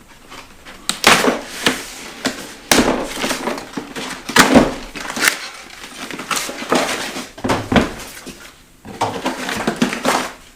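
Cardboard box and packaging being opened by hand: irregular rustling, crinkling and tearing bursts.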